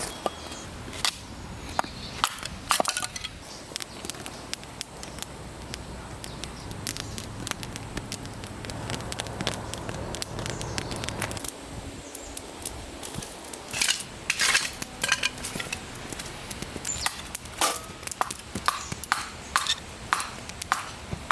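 Dry firewood being broken: irregular sharp cracks and crunches, coming in quicker clusters about two-thirds of the way through.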